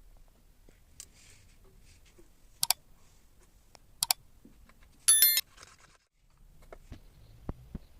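Small workshop handling sounds: two sharp double metallic clicks a second and a half apart, then a brief high-pitched ringing squeal about five seconds in, with a few light knocks near the end.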